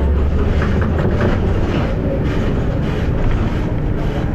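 Volvo B7RLE single-deck bus's diesel engine running with a steady low rumble, strongest in the first second, as the bus drives.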